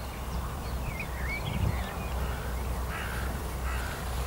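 Wild birds calling in a wetland: a few short chirps, then two harsh, rasping calls about three seconds in, over a steady low rumble.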